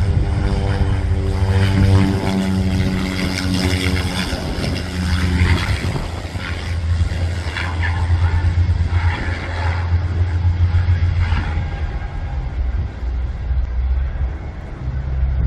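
Aircraft engines running close by: a loud drone with several steady pitched tones over a low rumble, the tones fading after about five seconds while the low rumble carries on.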